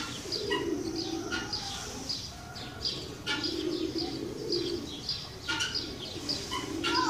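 Small birds chirping in many quick, short, high notes, over low calls that come and go in stretches of about a second.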